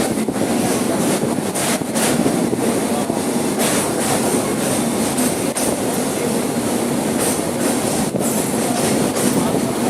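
A train running along the track: a steady, continuous rumble of wheels and carriages.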